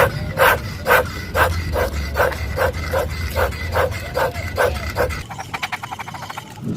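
A dog barking in a quick, even series of about two to three barks a second, stopping about five seconds in. A fast, fine rattling follows near the end.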